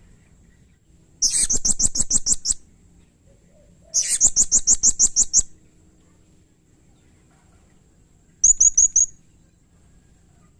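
Blue-crowned hanging parrot (serindit) calling in three bursts of rapid, high-pitched chirps at about six notes a second. The first two bursts last over a second each; the third, near the end, is a short run of four notes.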